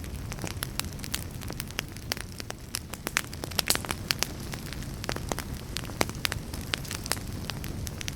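Wood fire burning in a fireplace: a steady low rumble of flames with many sharp, irregular crackles and pops from the burning logs, several a second.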